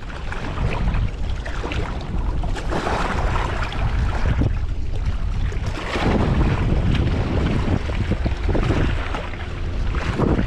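Strong wind buffeting the microphone: a loud, steady low rumble with gusts swelling and easing, heavy enough to drown out a voice.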